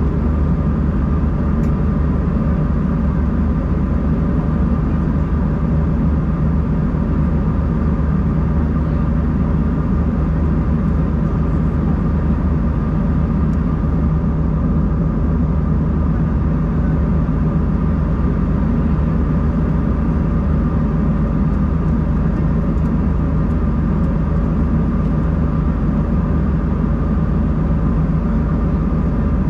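Steady cabin drone of an Embraer 190-E2 airliner with its Pratt & Whitney PW1900G geared turbofans running at a constant setting: a deep rumble of airflow and engines with a few steady, unchanging hums on top.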